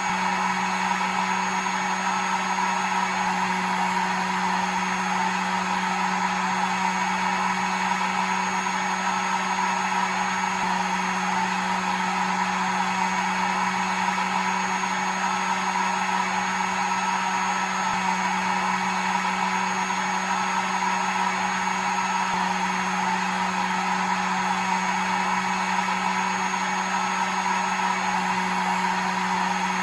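Hair dryer running steadily: an even rush of blown air over a constant motor hum, with a faint high whine, unchanging throughout.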